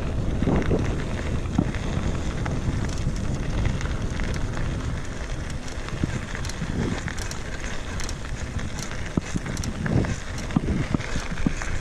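Wind buffeting the microphone over the rolling of mountain bike tyres on a dirt trail, with many scattered small clicks and rattles from the ground and the bike.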